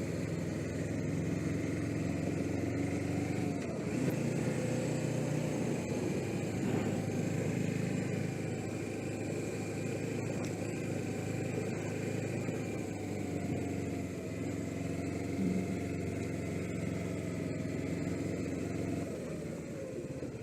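Suzuki GS500E's air-cooled parallel-twin engine running under way, its note rising and falling with the throttle and dipping a few seconds in and again near the end, heard from a helmet camera with wind noise.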